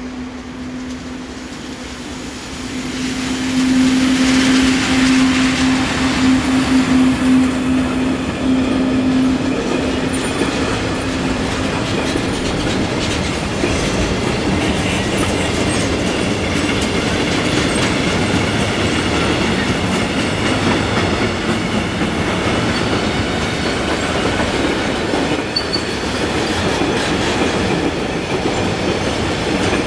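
A train passing close by. A steady hum swells as it arrives about three seconds in, then fades over the next several seconds, while the noise of wheels on the rails carries on, loud and even.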